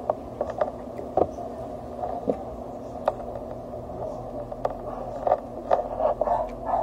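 Close-up chewing of raw green mango slices: short, irregular crisp crunches and mouth clicks, thickest in the second half, over a steady low background hum.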